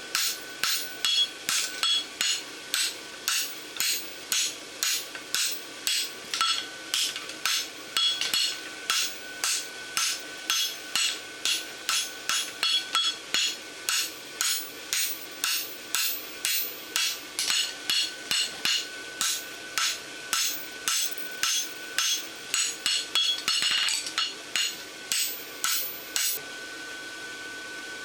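Farrier's hand hammer striking a hot 3/8 by 1 inch steel bar on the anvil, bumping up the outside edge of a horseshoe bar: ringing blows at about two a second, stopping about 26 seconds in, leaving a steady hum.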